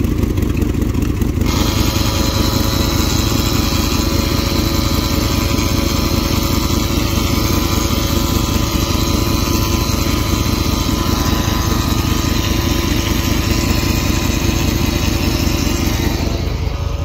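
5.9 L Magnum V8 of a 1999 Dodge Durango running with a miss, two cylinders dead from spark plug wires chewed off. About a second and a half in, a second steady mechanical whir joins the engine and runs on until it cuts off near the end.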